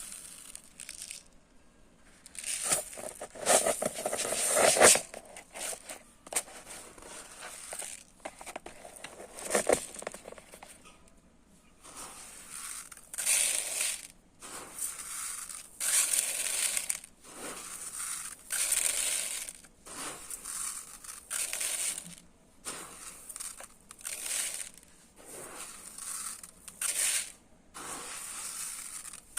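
Dry rice grains being scooped and poured, a run of short hissing, rustling pours one after another, loudest in a cluster a few seconds in.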